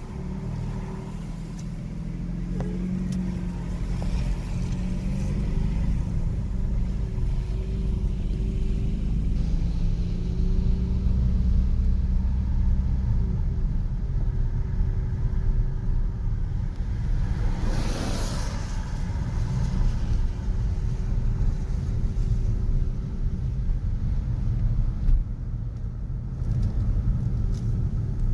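City street traffic: a steady low rumble of vehicle engines and tyres with an engine hum under it. About two-thirds of the way through, a brief rush of noise rises and falls, like a vehicle passing close.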